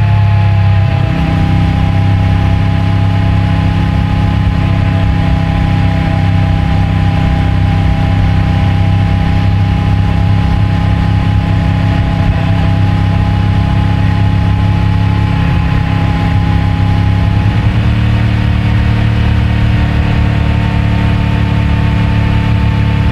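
CFMOTO 450MT motorcycle's parallel-twin engine through its stock exhaust, running at a steady cruise. The engine note holds nearly constant, shifting slightly about a second in and again near the end.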